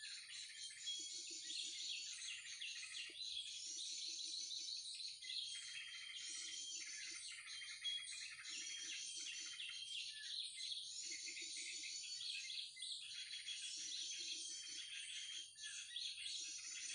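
Dense chattering and chirping of small songbirds at a bird-trapping lure, a mix of calls that includes sooty-headed bulbul (krucukan). A low pulsing sound repeats underneath about once every second and a bit.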